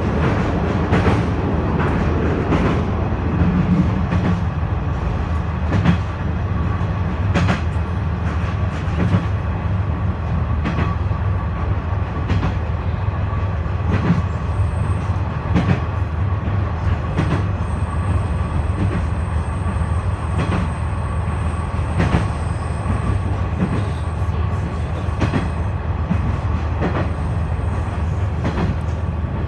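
Cabin running noise of a KiHa 126 series diesel railcar under way: a steady low engine and rolling drone, with the wheels clicking over rail joints every second or so.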